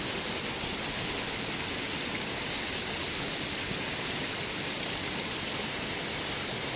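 Mahon Falls, a waterfall, rushing steadily with an even hiss of falling water.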